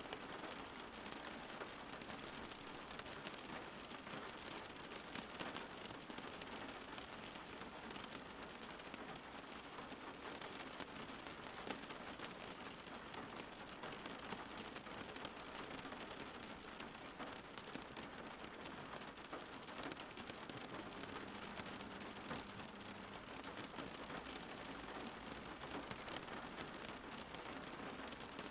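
Steady rain falling on a surface, an even patter of many drops.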